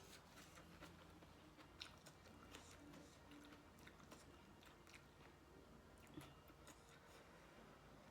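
Faint chewing and small mouth clicks of a person eating spicy papaya salad with shrimp and squid, over a low steady hum.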